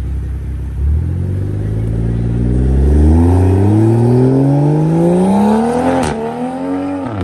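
Mk5 Toyota Supra accelerating hard away, its engine note climbing steadily for about five seconds. About six seconds in the pitch drops suddenly at an upshift with a sharp crack, then climbs briefly and drops again at a second shift near the end.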